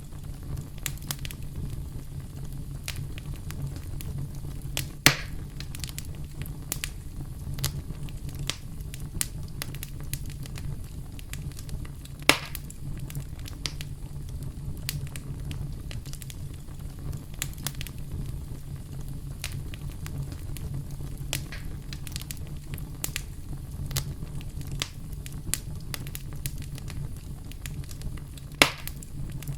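Wood campfire burning and crackling: a steady low rumble with frequent small crackles, and three louder pops spread through, the last near the end.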